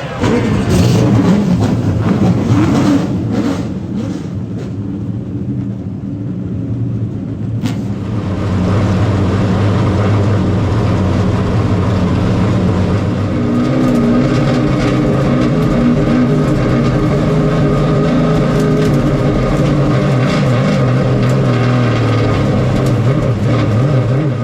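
A field of late model stock cars' V8 engines firing at once and running together, with more engines joining and the sound filling out about eight seconds in.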